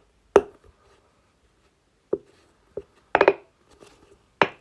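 Silicone bubbles on a large Pop-It fidget ball being pressed in, each giving a sharp pop. About six pops at uneven intervals, with a quick run of three about three seconds in.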